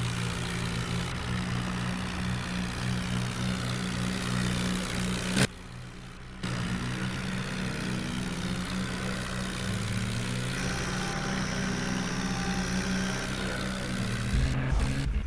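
Diesel engine of heavy machinery running steadily, with some changes in pitch. It cuts out abruptly for about a second partway through, then carries on, with heavier uneven knocks near the end.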